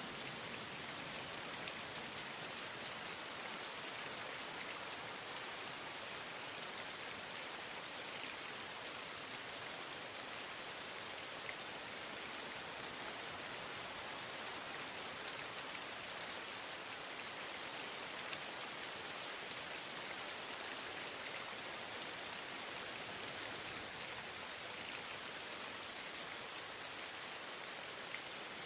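Steady rain falling: an even hiss with a fine patter of drops that never lets up.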